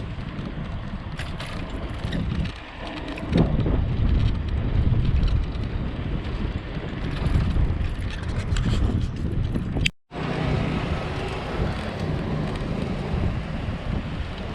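Wind buffeting the microphone of a camera riding on a moving bicycle, a heavy steady rumble mixed with road noise, growing louder about three and a half seconds in. The sound cuts out for an instant about ten seconds in.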